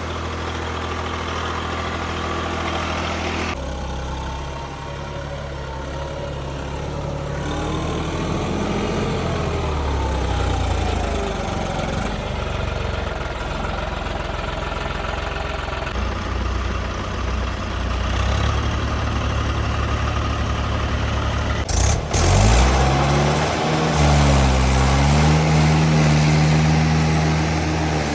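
Diesel tractor engines labouring in deep mud, their pitch rising and falling as they rev up and ease off. The engine sound changes abruptly several times, with a brief sudden disturbance a little over 20 seconds in.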